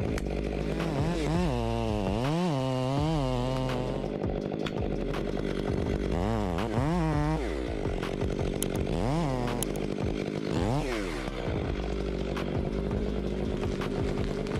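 Chainsaw engine revving up and down several times, its pitch rising and falling, with steadier running between the revs, as it cuts wood.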